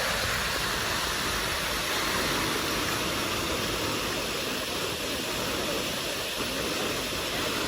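Fountain water splashing and falling in a steady rush.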